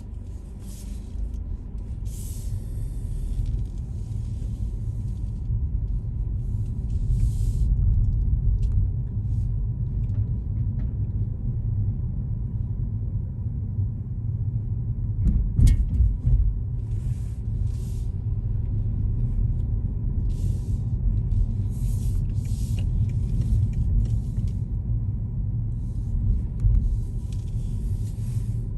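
Car on the move: a steady low rumble of engine and road noise with patches of hiss coming and going, and a single thump about halfway through.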